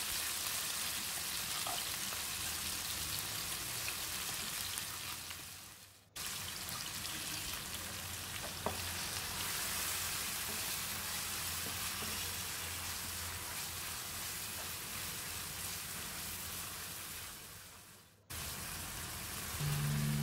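Chopped pepper and onion mix sizzling steadily as it fries in hot vegetable oil in a nonstick wok. The sizzle fades away twice, about six seconds in and again near the end, each time cutting straight back in.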